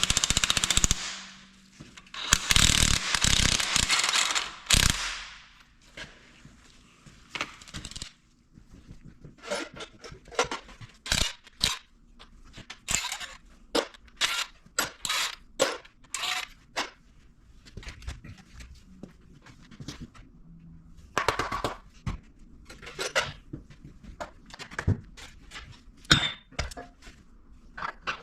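Two loud bursts of rapid rattling hammering, typical of an air impact wrench spinning off bolts, then a long run of short sharp metal clanks and knocks as tools and engine parts are handled.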